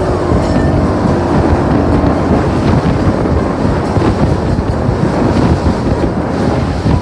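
Motorboat under way: a steady engine drone mixed with water rushing past the hull and wind buffeting the microphone.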